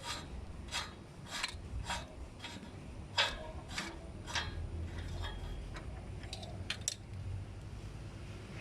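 About eight short scraping strokes, roughly one every half second, like a tool rubbing or rasping on a hard part. A few sharp clicks follow near the end, over a steady low rumble.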